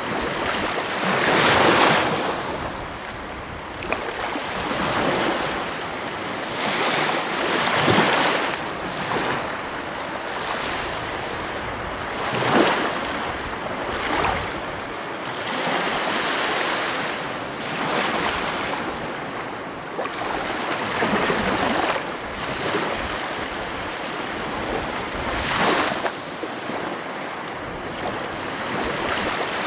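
Heavy ocean waves breaking on the coast, a steady wash of surf rising in a surge every few seconds, with wind buffeting the microphone.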